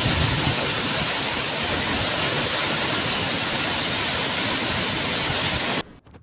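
Loud, steady rushing noise with no pitch to it, like pouring water or wind, cutting off abruptly near the end.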